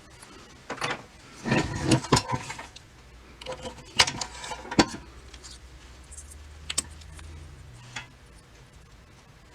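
Metal parts clinking and knocking as they are handled, in a handful of separate sharp clicks and clatters. A faint low hum runs for about two seconds after the middle.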